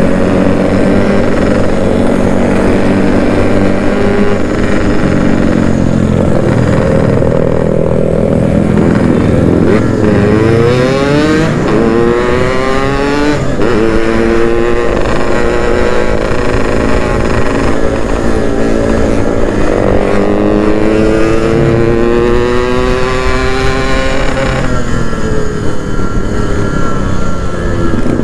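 Yamaha RX-King's single-cylinder two-stroke engine being ridden hard, its pitch climbing several times with short breaks between, then falling away near the end.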